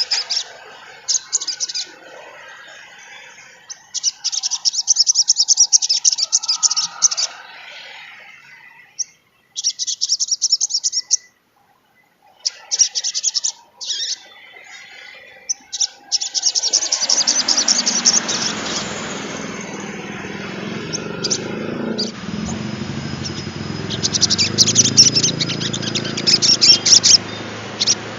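A sogon trotol (streaked sunbird-type songbird) singing a fast, high chattering song. The notes come in rapid trains of one to two seconds, separated by short pauses. From about halfway, a steady hiss with a low hum runs underneath.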